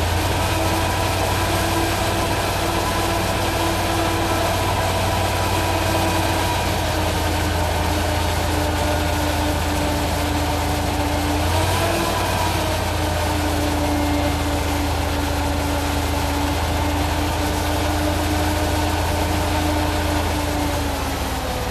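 Concrete pump truck's engine running at raised revs with a steady drone. It comes up at the start, dips briefly about halfway and drops back near the end.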